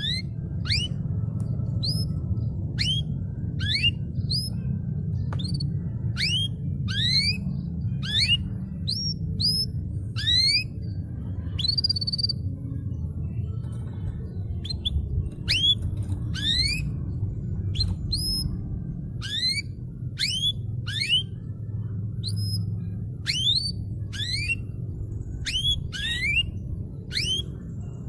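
Canary song: a steady run of short, rising whistled chirps, about two a second, over a constant low background rumble.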